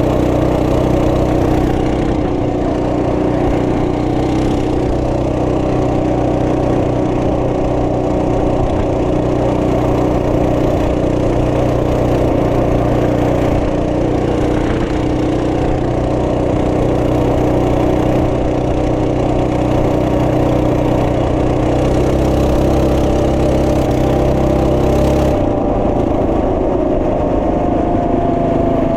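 Trail Master MB200 minibike's 212cc single-cylinder four-stroke engine running at a steady speed. The engine note shifts about 25 seconds in, and the pitch falls slowly near the end.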